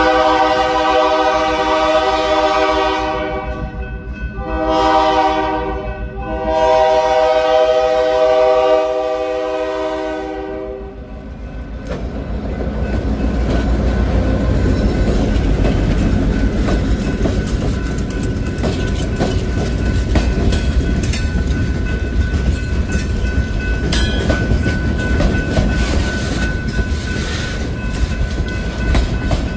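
Diesel locomotive's multi-chime horn sounding three blasts, the last and longest ending about eleven seconds in. Then the train rolls by with a low rumble and clicking wheels on the rails.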